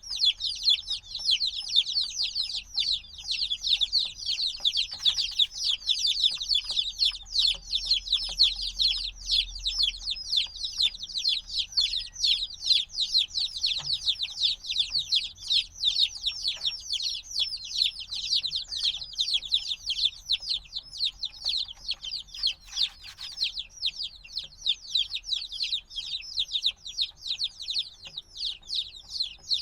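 A brood of newly hatched chicks peeping incessantly, many short, high, downward-sliding cheeps overlapping in a continuous chorus. A few faint taps and knocks sound under the peeping.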